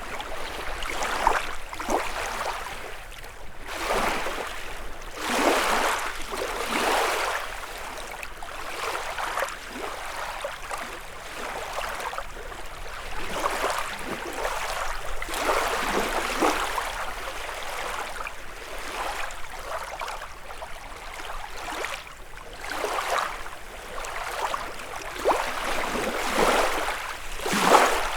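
Small lake waves lapping and washing onto the shore, each wash swelling and falling away over a second or two in an uneven rhythm.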